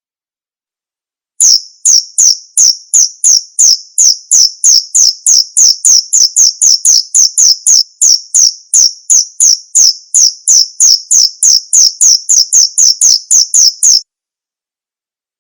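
Male cricket's calling song: a fast, regular run of high chirps, about three a second, that starts and stops abruptly.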